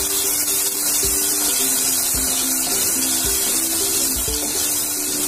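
Onion-tomato masala sizzling in oil in a pressure cooker as it is stirred, with a steady hiss. Background music with short melody notes and a low beat about once a second plays over it.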